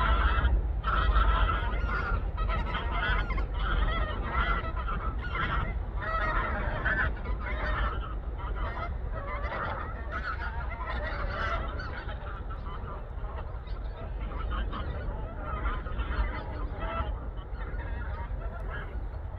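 A flock of wild geese honking, many short calls overlapping, growing fainter toward the end.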